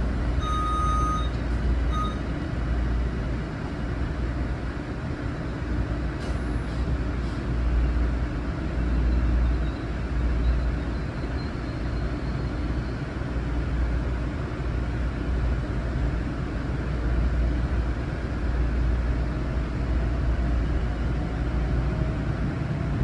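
Long Island Rail Road M9 electric train running between stations, heard from inside the car: a steady low rumble of wheels on the track. A couple of short beeps sound in the first two seconds, and a faint rising whine comes in near the end.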